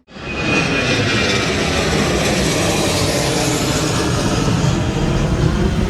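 Loud, steady roar of a jet aircraft's engines, starting abruptly.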